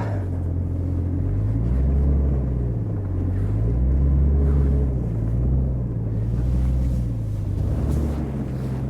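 A 4x4's engine working hard in deep dry snow, its pitch and loudness swelling and falling every couple of seconds as the throttle is worked. It is running fully locked on tyres aired down to 3 psi while the vehicle struggles for grip.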